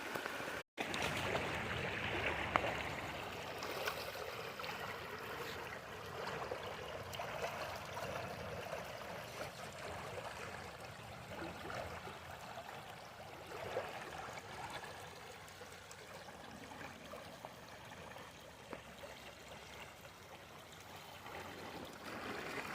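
Rain-fed floodwater running and trickling across a hiking trail, a steady rush of water that grows slowly fainter. The sound drops out for an instant just under a second in.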